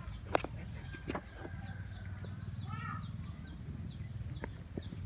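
Short, high, downward chirps from a bird, evenly repeated about four times a second, over a low steady rumble. A few sharp clicks come in the first second.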